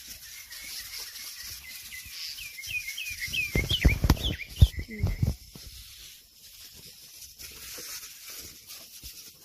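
A bird calls a rapid series of about ten short, downward-sliding chirps from about two to five seconds in, over a steady high hiss. In the middle come loud rustling thumps from footsteps through the plants.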